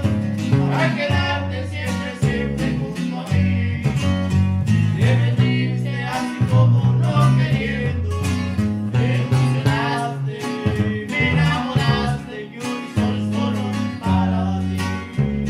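Norteño band music: plucked guitar strings over a moving bass line, with a singing voice.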